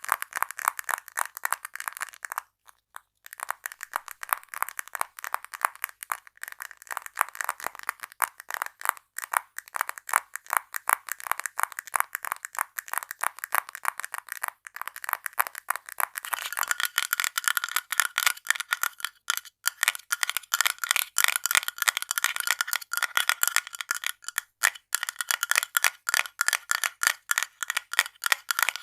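Rapid ASMR tapping on small objects, many quick taps a second, with a short pause about three seconds in. About halfway through the taps change to a brighter sound with a faint ring.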